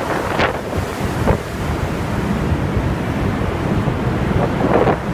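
Strong tornado wind rushing and buffeting the microphone in a steady, dense roar, with a few brief sharper sounds near the start and again near the end.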